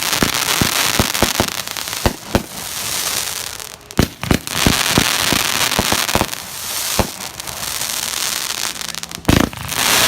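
Fireworks going off: a continuous crackling hiss broken by many sharp bangs, several each second, with the loudest bang about nine seconds in.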